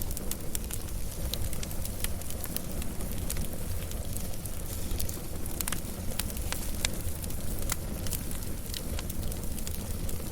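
Wood fire burning with a steady low rumble and frequent sharp crackles and pops scattered irregularly throughout.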